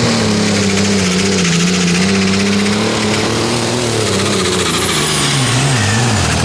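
Competition pulling tractor's engine running hard under load, with a high whine over it; the engine's pitch slowly sags, then wavers near the end.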